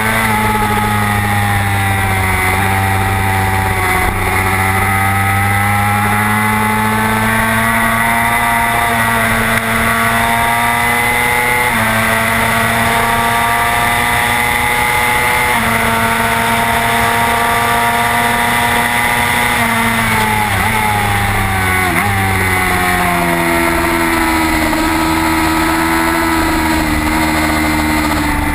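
Racing motorcycle engine at high revs, heard onboard over a constant rush of wind. Its pitch climbs and then drops in steps with the gear changes, falls steeply through downshifts under braking about two-thirds through, then climbs slowly again.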